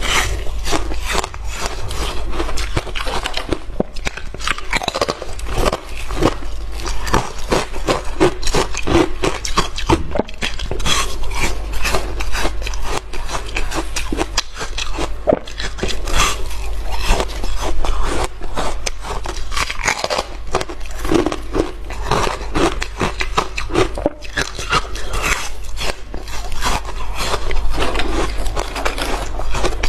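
A person biting and chewing hard frozen ice close to the microphone: dense, continuous crunching and cracking with scraping bits between bites.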